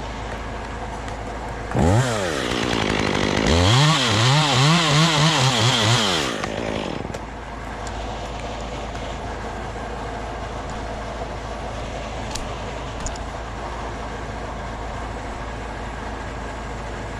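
Chainsaw revving up about two seconds in, then cutting into the wood for about three seconds with its pitch wavering under load. It drops back to a low steady run for the rest.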